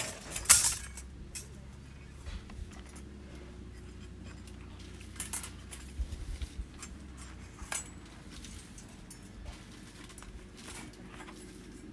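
Scattered light metallic clinks and knocks, as of metal camping gear being handled, with a sharp knock about half a second in and a few more around the middle. A faint low hum runs underneath for the first seven seconds or so.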